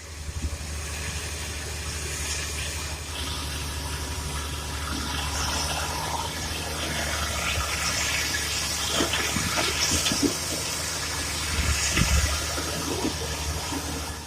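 Diesel engines of an excavator and dump truck running steadily with a low hum, over a rushing hiss of soil being loaded. Several knocks and louder surges come about nine to twelve seconds in.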